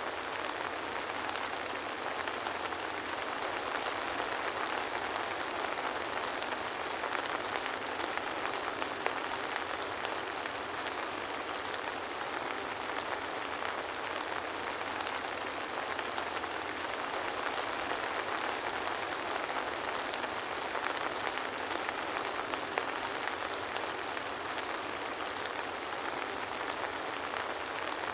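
Steady soft rain: an even hiss of falling rain with a fine patter of individual drops, unchanging in strength.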